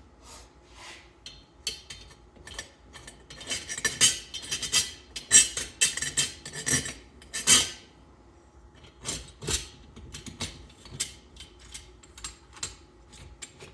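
Metal hand tools and small engine parts clinking, clicking and scraping on a workbench during a small-engine teardown, a dense run of knocks over the first half, then scattered clicks.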